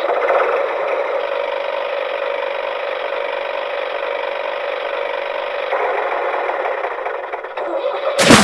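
A small motor running steadily with a constant mid-pitched whine; a brief loud, noisy burst cuts in near the end.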